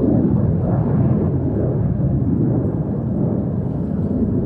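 Saab 37 Viggen's afterburning turbofan engine, a single jet, roaring steadily overhead during its display. It is a loud, deep rumble.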